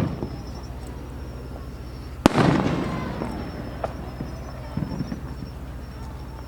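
Fireworks shells bursting: a sharp bang at the start, then a louder bang about two seconds in that rolls on and fades over more than a second, followed by a few smaller pops.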